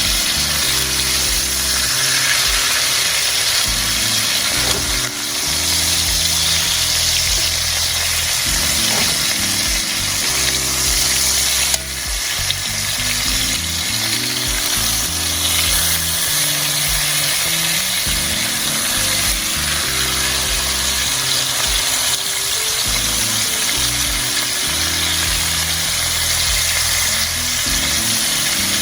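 Chicken frying in oil in a pan, a steady sizzle, with background music of held low notes underneath.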